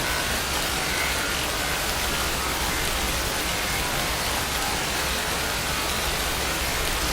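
Steady rainfall, an even hiss of rain with a low rumble underneath and no change in intensity.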